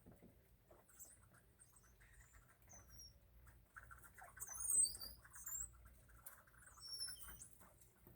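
Faint, short, high chirps and squeaks from small birds feeding at a seed feeder, in scattered clusters that grow busiest about halfway through. Soft scratchy pecking and shuffling sounds come with them.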